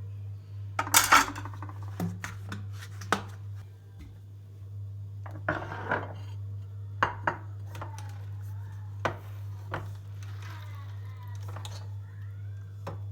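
Kitchen dishes and cutlery being handled: scattered clinks and clatters, the loudest about a second in, over a steady low hum.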